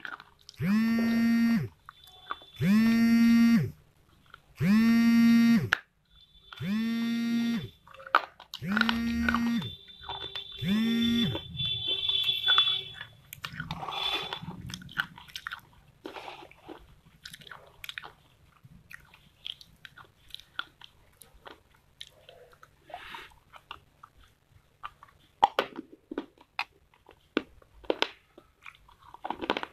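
About six long, even-pitched hums of a person's voice, each about a second long. Then, from about fourteen seconds in, pieces of dry clay pot are bitten and chewed, giving many short, crisp crunches and clicks.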